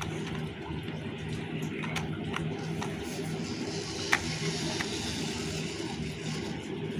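Small electric motor and gearbox of a homemade RC tractor running with a steady hum, with scattered light clicks and one sharper click about four seconds in.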